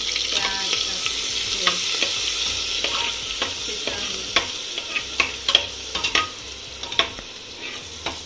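Cumin and garlic sizzling in hot oil in a pressure cooker while a steel ladle stirs and clinks against the pot. The sizzle slowly dies down, and the ladle clicks come more often in the second half.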